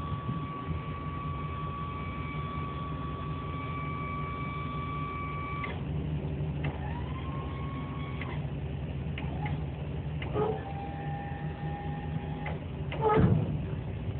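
Venture ET8K truck crane's motor whining as it is worked by remote, stopping and starting several times with clicks, each start rising quickly to a steady pitch, over the low hum of the idling truck engine. A loud knock near the end.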